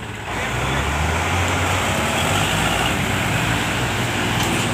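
Heavy farm-machinery diesel engines running loudly, with a steady low hum. They jump up in level about a third of a second in and hold there.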